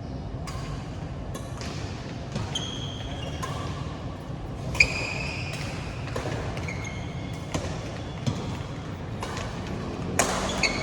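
Badminton rally: rackets striking the shuttlecock about once a second, with shoes squeaking on the court floor between the hits.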